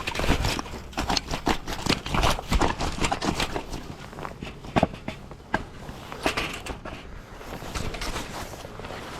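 Split firewood pieces knocking and clattering against one another as they are fitted into a stack. A quick run of knocks comes in the first few seconds, then a few scattered single knocks.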